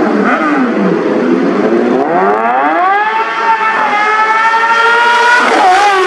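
Superbike engine and exhaust: the pitch drops off in the first second, then climbs hard as the bike accelerates, holds high and steady, and dips briefly near the end.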